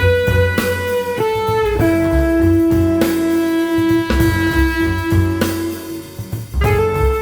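Modern jazz instrumental. A lead instrument holds long melody notes that step to a new pitch every second or few, over bass and drum kit.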